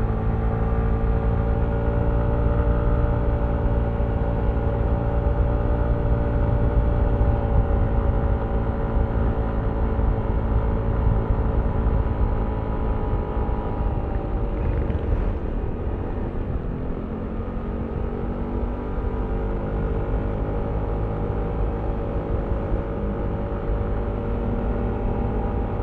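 Yamaha Aerox V3 scooter's 155 cc single-cylinder engine running at steady cruising throttle. About two-thirds of the way through the engine note drops and wavers as the throttle eases off, then settles into a steady, slightly lower note.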